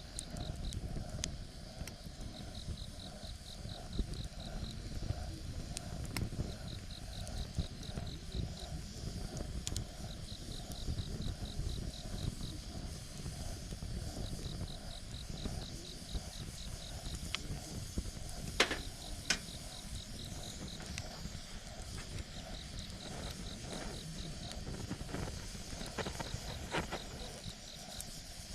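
Campfire burning with a low rumble and scattered sharp crackles and pops, a few louder pops about two-thirds of the way through. Over it an insect calls in short trills of rapid pulses, repeating every few seconds.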